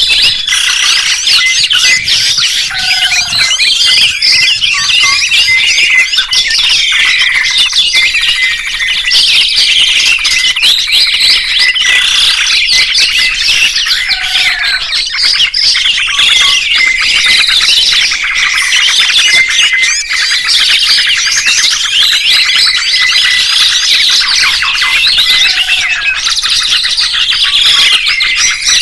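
Songbirds chirping and trilling densely and without a break, many quick high calls overlapping. The same passage comes round again about every eleven seconds.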